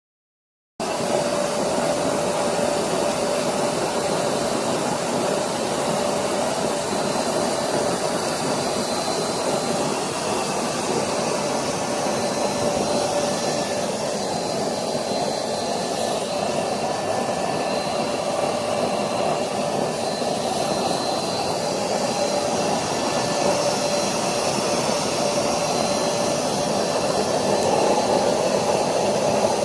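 Waste-engine-oil furnace burner running with its air blower: a steady roar with a faint constant whine, starting about a second in.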